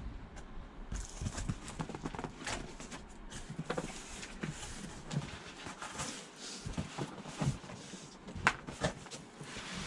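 Packaging being handled by hand: irregular knocks, taps and rustles as boxes and a carry case are opened and moved.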